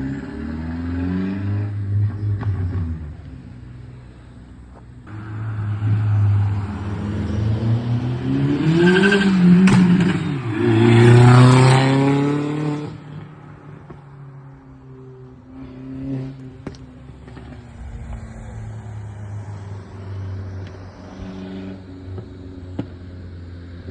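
Turbocharged 1.8-litre four-cylinder engine of a tuned 2001 VW GTI revving up to a loud peak about ten seconds in, then dropping back to a low, steady run. As the revs fall there is a high whistle, and a sharp pop or two cracks out.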